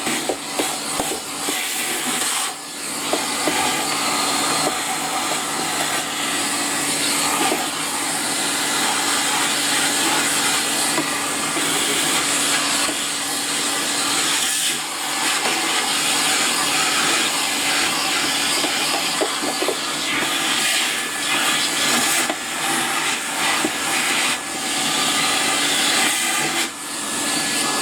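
Vacuum cleaner running with a steady suction hiss over a constant hum, dipping briefly three times.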